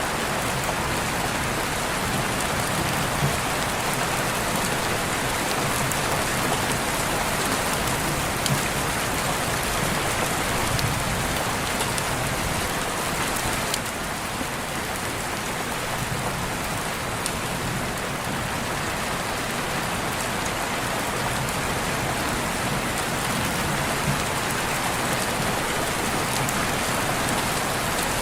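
Steady rain falling, with an occasional sharper single drop ticking through it.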